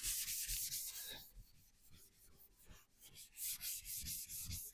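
Primer on a VW T25 van's body being rubbed down by hand with an abrasive, in quick back-and-forth scratchy strokes. The strokes fade out for a while partway through and pick up again near the end.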